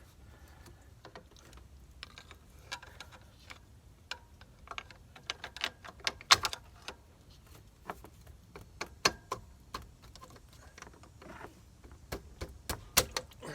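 Irregular clicks and clinks of metal engine parts being handled, as the thermostats are worked out of the thermostat housing on a Duramax diesel. Several sharper knocks stand out about six seconds in and again near the end.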